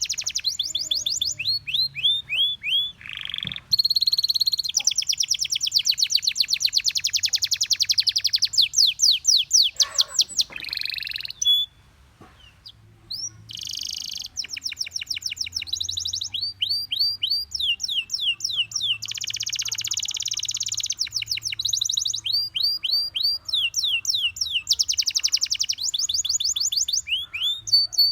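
Gloster canary singing: long runs of rapid repeated trills and chirps, high-pitched, with a brief pause about halfway through.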